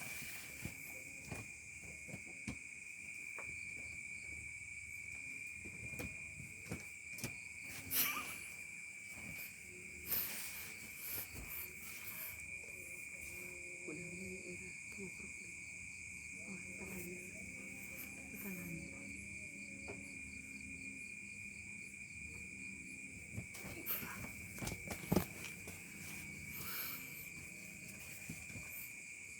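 Cats in a standoff giving long, low, wavering growling yowls, mostly through the middle, over a steady chorus of crickets; scattered clicks and knocks.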